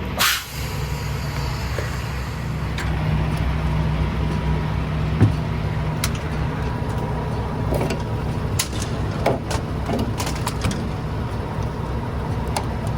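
Peterbilt semi truck's diesel engine idling with a steady low rumble. A short loud hiss comes right at the start, and scattered sharp clicks and knocks come through in the second half.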